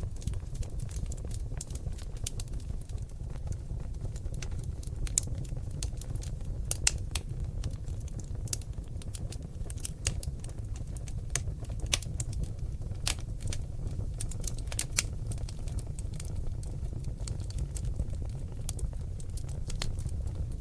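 Wood fire in a fireplace, seasoned oak logs crackling: frequent sharp, irregular pops and cracks over a steady low rumble of flame.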